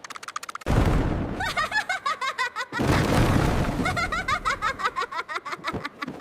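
Cartoon giggling in rapid high-pitched bursts, mixed with two loud, sudden rumbling booms, the first under a second in and the second about three seconds in.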